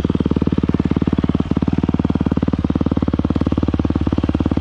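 Yamaha YZ250F dirt bike's 250 cc four-stroke single-cylinder engine idling, a loud, steady, fast even putter with no revving.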